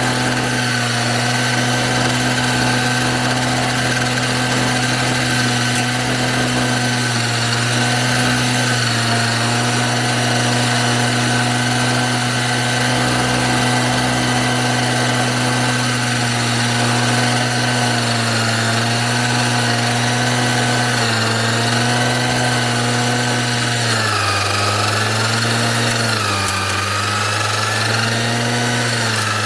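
Small engine of a self-propelled grass mower running steadily, its pitch dipping and recovering a few times near the end.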